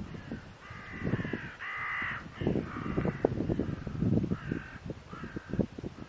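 A bird giving a series of harsh, cawing calls, several in the first half and two shorter ones near the end. Irregular low rumbles of wind buffeting the microphone run under them.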